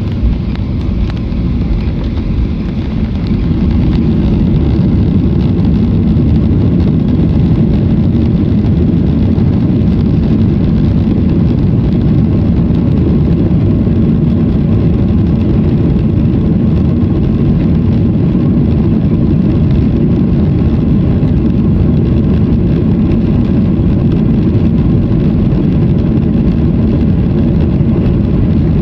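Airliner engine and cabin noise heard from inside the passenger cabin during takeoff: a dense, low rumble that grows louder about three seconds in, then holds steady and loud.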